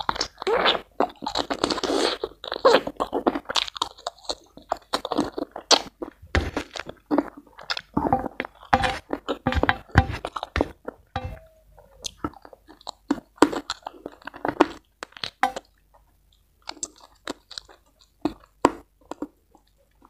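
Close-miked eating of spicy rica-rica chicken with rice by hand: chewing and crunching with many irregular wet mouth clicks and smacks, easing off briefly about three-quarters through.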